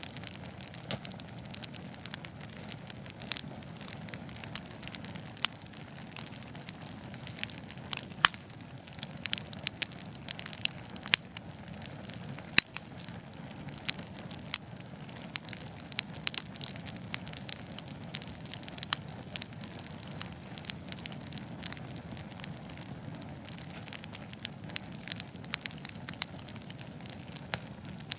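Wood fire crackling in a fireplace: a steady low rumble of flames with frequent sharp pops and snaps, a few louder pops about eight and twelve seconds in.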